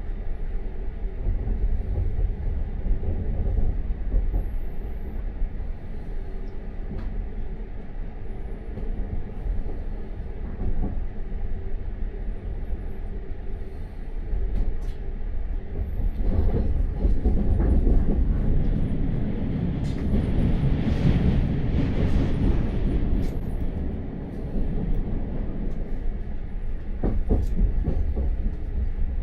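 A passenger train running, heard from inside the carriage: a steady low rumble of wheels on track with a few light clicks. It grows louder for several seconds a little past the middle, then settles back.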